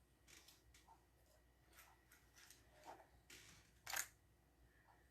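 Near silence: room tone with faint scattered clicks and rustles, and one sharper click about four seconds in.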